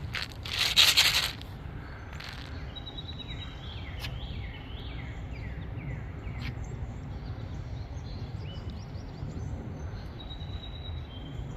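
A loud rushing burst of noise lasting about a second near the start, then a small songbird singing a run of quick down-slurred whistled notes, over a steady outdoor background noise.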